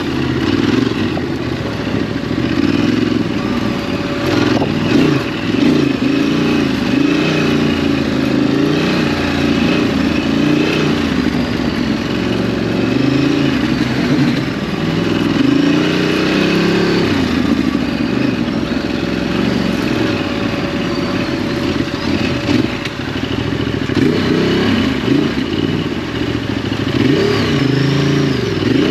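Ducati DesertX's 937 cc V-twin engine riding on a dirt track, its note rising and falling again and again with the throttle.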